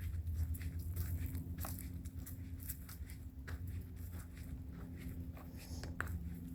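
Footsteps on a woodland trail: irregular sharp crackles and ticks, over a steady low rumble.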